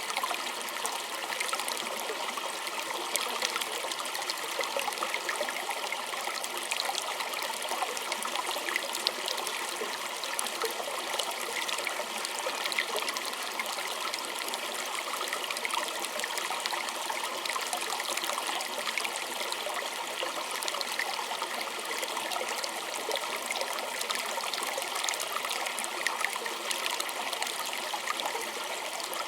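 Small stream trickling and splashing over rocks: a steady, even rush of water with many small bright droplet splashes.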